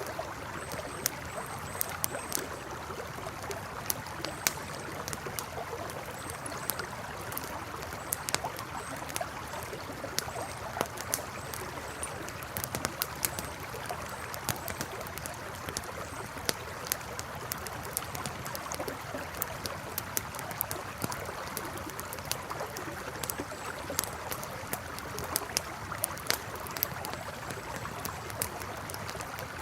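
Campfire crackling, with frequent sharp irregular pops over the steady rush of a flowing river. Faint short high chirps come and go, mostly in the first half.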